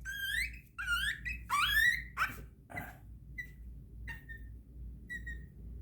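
Puppy whining and yelping at a vaccine injection: several high, rising-and-falling whines in the first two seconds, then short faint squeaks repeating about every 0.7 s.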